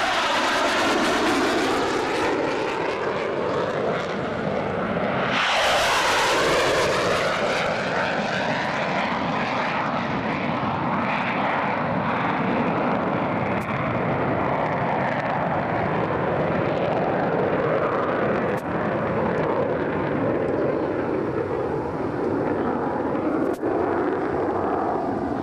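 Two Panavia Tornado jets passing fast and low, one after the other. The jet noise surges near the start and again about six seconds in, the pitch falling as each goes by, then carries on loud and steady as they climb out.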